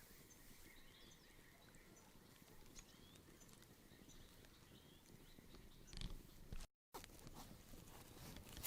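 Quiet outdoor ambience with faint, scattered bird chirps. A brief knock sounds about six seconds in, followed by a short dropout and a few light clicks.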